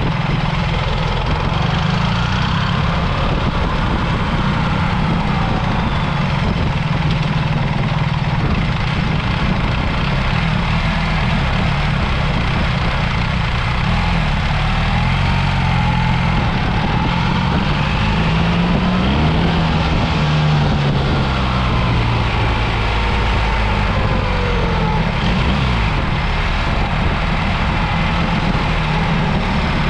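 BMW R 1300 GS motorcycle's boxer-twin engine running steadily under way. Its note rises and falls several times past the middle as the throttle changes.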